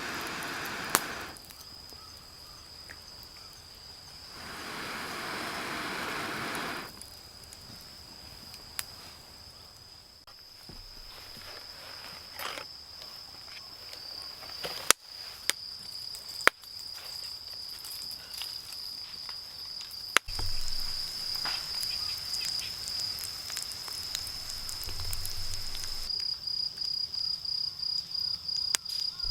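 Insects, likely crickets, trilling steadily at one high pitch, the trill turning pulsed in the last few seconds, over a wood campfire that gives a few sharp pops and cracks. Two longer rushes of noise, at the start and again from about four to seven seconds in.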